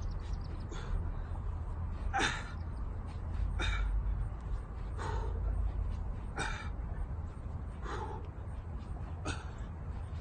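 A man's sharp, forceful breaths out during repeated jumping exercise, about one every second and a half, over a steady low rumble.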